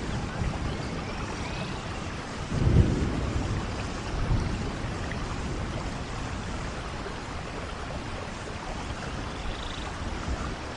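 Steady rainfall hissing, with a low rumble about two and a half seconds in and a smaller one a second or so later.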